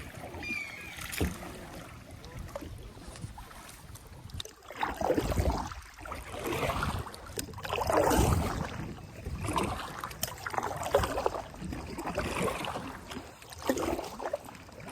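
Kayak paddle strokes dipping and pulling through river water, a swish of water about every second and a half.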